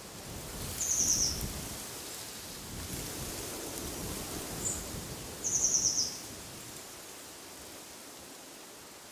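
A songbird giving two short, rapid high-pitched trills that fall slightly in pitch, about a second in and about five and a half seconds in, with a single chirp between them. Underneath is steady wind noise with low rumbling gusts.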